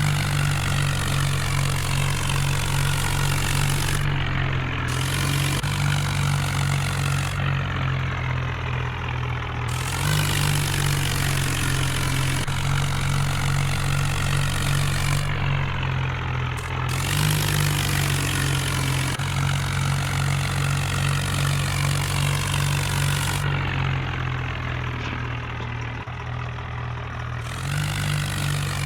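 A tractor's diesel engine runs steadily, with its note rising a few times as it is revved or put under load.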